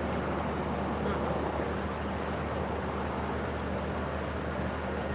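Steady low hum with a haze of background noise, unchanging throughout.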